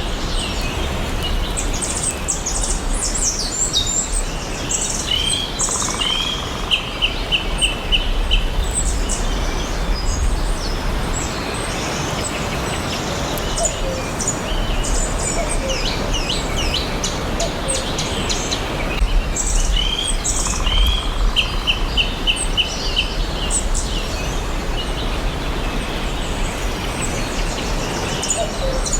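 Several forest birds chirping and singing, with many quick high chirps overlapping. About six seconds in, and again around twenty seconds in, one bird gives a short run of evenly spaced notes. A steady low background noise runs beneath.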